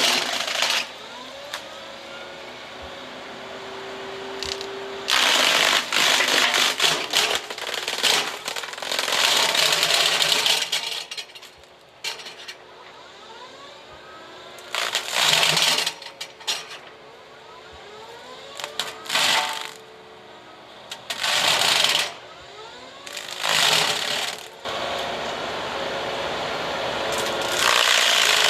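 Excavator-mounted flail mower chewing through brush and small trees in repeated loud bursts a few seconds apart. Between the bursts the machine runs more quietly.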